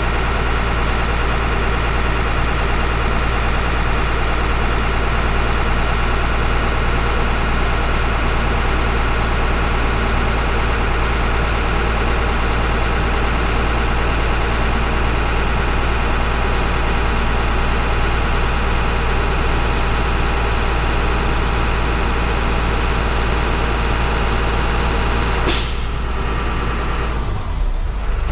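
Caterpillar 3116 diesel in a school bus idling steadily after a cold start. About 25 seconds in there is a sudden sharp burst of air from the air-brake system, and the sound drops after it.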